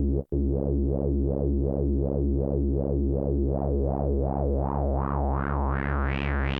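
Roland SH-09 monophonic analog synthesizer playing a sequenced low bass note that repeats evenly, about four to five times a second. Its filter opens over the last couple of seconds, so a resonant, wavering brightness rises and the tone grows sharper.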